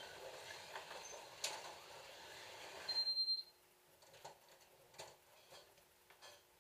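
Slot cars running on the track, a steady whirring hiss, then a short high electronic beep about three seconds in, after which the running noise stops and only light clicks and taps remain.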